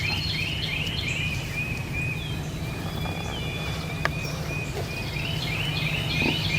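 Songbirds singing: a quick series of slurred whistled notes near the start and again near the end, with single down-slurred whistles in between. A low steady rumble runs underneath, and there is one sharp click about four seconds in.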